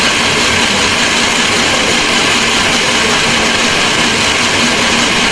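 Blender running steadily at high speed, blending a smoothie.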